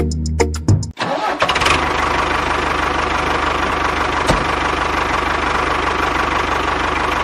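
Music cuts off about a second in and gives way to a small motor running steadily, with a fast fine rattle, and a single sharp click near the middle.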